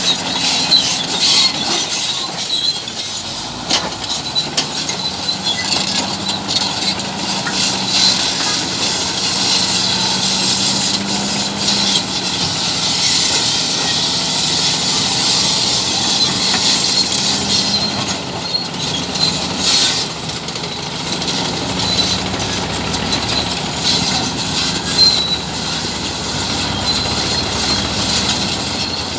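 Bulldozer running under load, its engine humming steadily while the steel crawler tracks clank and squeal continuously.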